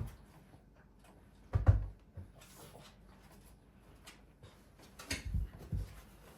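Quiet handling noises: a dull thump about one and a half seconds in, then a few softer knocks near the end.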